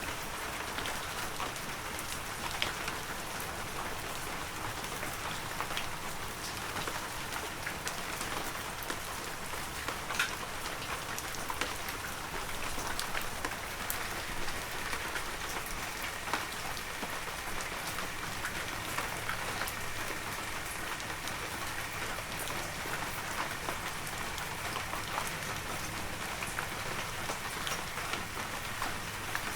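Heavy rain falling steadily, with the patter of scattered individual drops hitting surfaces.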